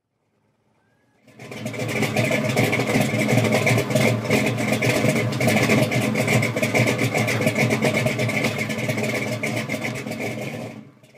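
Car engine running steadily with a fast, rough pulse, fading in about a second in and cutting off abruptly just before the end.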